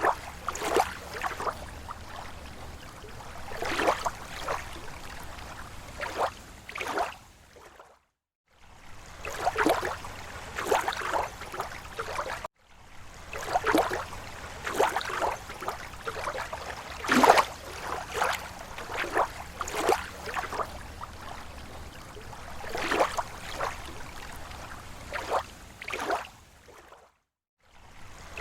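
Small waves lapping and splashing against a lake shore, with irregular slaps and gurgles. The water fades out to a moment of silence twice, about eight seconds in and near the end, and cuts off abruptly for an instant around twelve seconds in.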